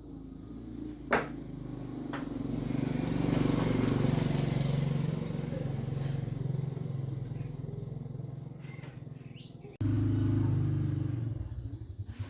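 Small engine running steadily, then winding down near the end with slowing, separate pulses.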